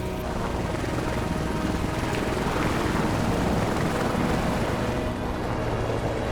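Air ambulance helicopter taking off, its rotor and engine noise steady and swelling louder in the middle before easing, with music underneath.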